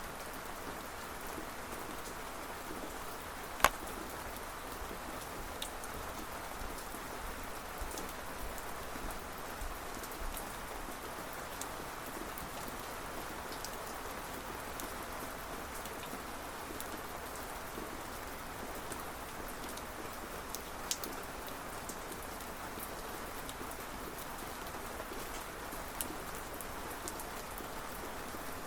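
Steady rain falling, an even hiss with scattered sharp drip ticks; one drop hits louder about three and a half seconds in, and a couple more stand out later.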